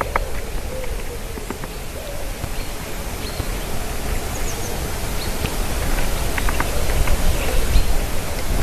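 Steady rumbling outdoor noise, most of it low down, with a few faint, short small-bird chirps scattered through it.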